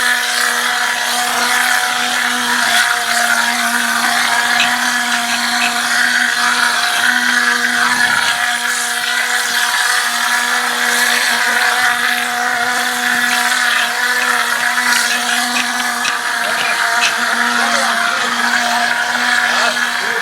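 A motor running at constant speed, giving a steady pitched hum with a busy mechanical noise above it.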